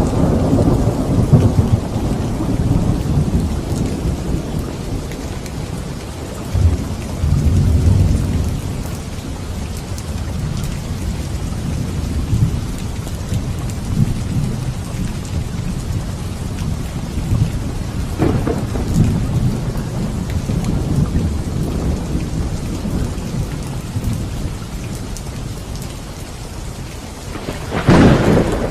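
Steady rain with rolling thunder: a long low rumble fading over the first several seconds, a sharper crack about two-thirds of the way through, and a loud thunderclap near the end.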